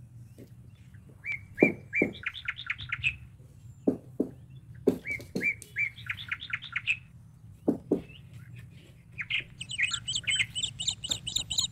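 A songbird singing a short phrase twice, a few steady notes then a fast trill, followed near the end by a quicker run of high chirps. Scattered sharp knocks sound in between and are the loudest events.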